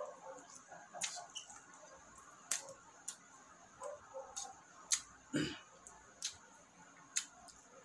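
Close-up eating sounds of chicken adobo and rice eaten by hand: chewing with about ten sharp, irregular wet clicks and smacks from the mouth.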